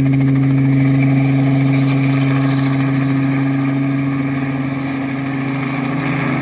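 Steady engine drone at an even pitch, easing off slightly a little past halfway.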